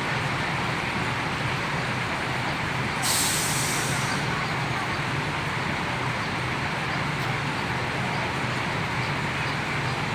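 A bus's diesel engine idling steadily, with a short air-brake hiss about three seconds in.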